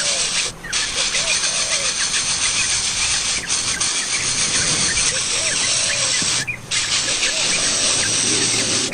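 Small bird calls and squeaky chirps, likely from the nest, over a dense, steady insect hiss. The sound cuts out briefly twice, near the start and about two-thirds of the way through.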